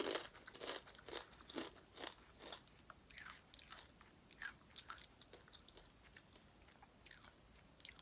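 A person biting into and chewing Takis rolled tortilla chips: a run of sharp, dry crunches, thickest in the first few seconds, then sparser chewing crunches.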